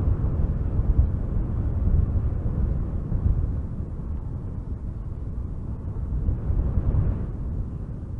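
Strong wind gusting through spruce trees, with a heavy low rumble of wind buffeting the microphone. Gusts swell about one, two and seven seconds in, and the wind eases near the end.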